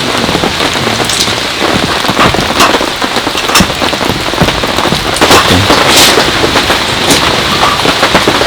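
Heavy rain falling steadily on a tent's rain fly, with scattered louder single drops or drips striking sharply.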